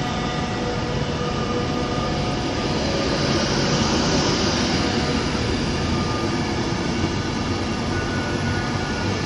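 Class 390 Pendolino electric train moving through the station: a steady rail rumble with faint whining tones, swelling a little in the middle.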